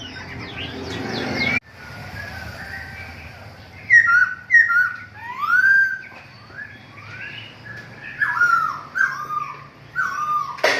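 Caged birds in a bird shop chirping and whistling, a run of short notes sliding down and up, one after another. At the start a rushing noise swells and then cuts off suddenly.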